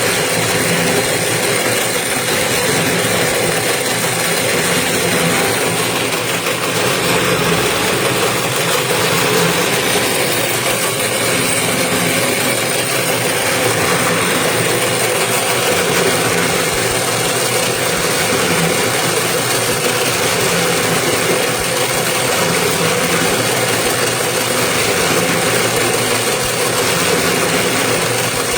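Toroidal transformer winding machine running steadily with an even motor hum.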